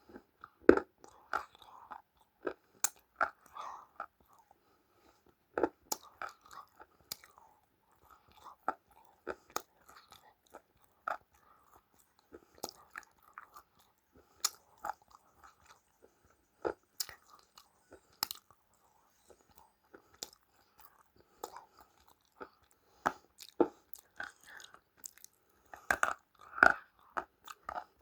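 Someone biting and chewing crunchy food, with sharp crunches at irregular intervals and a denser run of crunches near the end.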